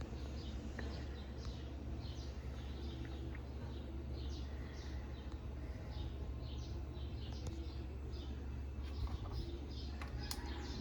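Faint bird chirps, many short calls scattered throughout, over a steady low hum.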